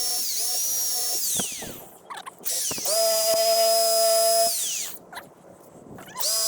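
DeWalt drill spinning a wire wheel against the car's body panel, run in bursts: it whines at speed, winds down, and spins up again, three times, stripping bubbled paint to expose the rust beneath.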